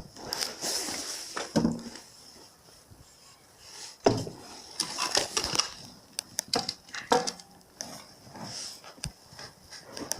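Irregular clicks, knocks and rustling of small hard parts being handled and set down, with a few louder knocks about four and five seconds in.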